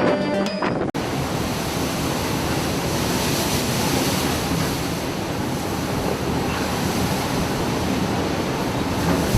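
Steady rush of wind and breaking sea waves, with wind blowing on the microphone. It follows a cut from background music about a second in.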